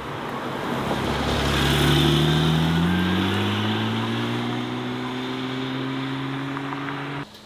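Car engine accelerating as it drives past, its pitch rising steadily through one long gear; it is loudest about two seconds in and cuts off suddenly near the end.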